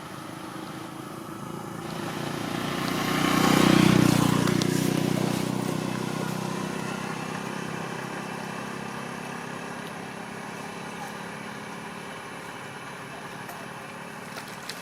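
A motor vehicle engine passing by. It builds up, is loudest about four seconds in, then fades slowly away.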